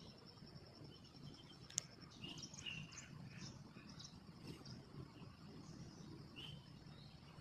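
Faint outdoor ambience: a steady, high, pulsing insect trill with scattered bird chirps. A single sharp click comes about two seconds in.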